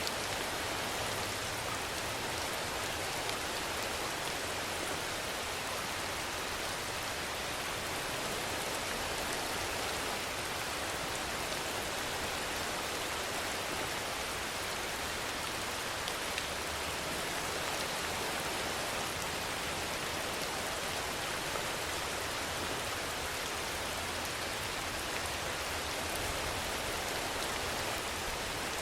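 Steady rainfall: an even, unbroken hiss with scattered faint droplet ticks.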